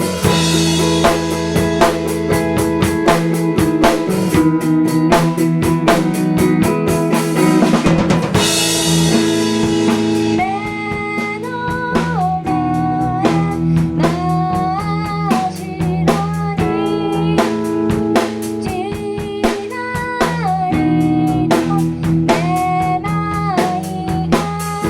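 Live indie-pop band playing a song on drum kit and electric guitar, with cymbal crashes near the start and about eight seconds in. A bending melody line comes in about ten seconds in.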